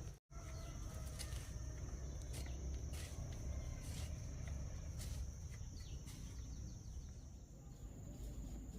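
A steady high-pitched insect chorus, like crickets, over a low rumble on the microphone, with scattered faint clicks.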